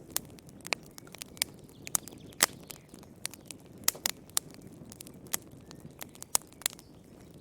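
Wood fire crackling in a fireplace: irregular sharp pops and snaps over a low, steady rush of burning, with louder pops about two and a half seconds in and again around four and six seconds.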